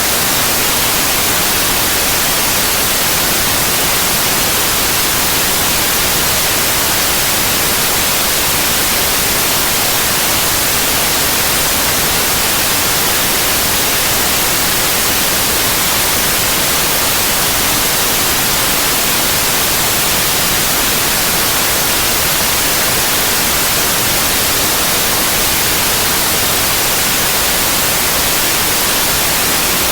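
Synthetic white noise: a steady, loud, even hiss, brightest in the high frequencies, with no change or interruption.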